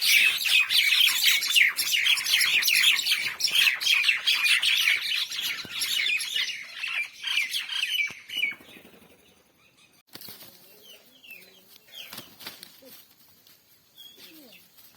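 Mynah birds chattering: a loud, dense run of short, rapid, overlapping calls that thins out about eight or nine seconds in to scattered, quieter calls.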